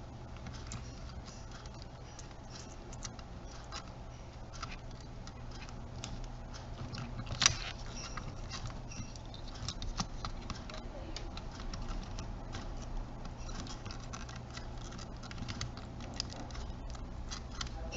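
Scattered small clicks and taps of hands and tools working small plastic parts while reconnecting a camcorder's internal speaker, with one sharper click about seven and a half seconds in, over a steady low hum.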